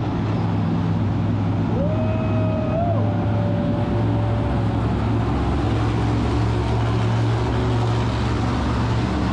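Monster truck engine running steadily at idle, with no revving. About two seconds in, a high held whistle-like tone sounds for about three seconds over it.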